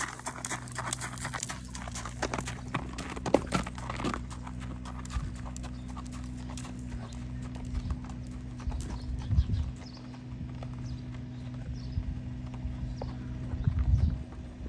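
Hoofbeats of a spotted saddle horse shod with steel keg shoes, a run of quick sharp clicks in the first few seconds, then sparser knocks and a few dull thumps. A steady low hum runs underneath.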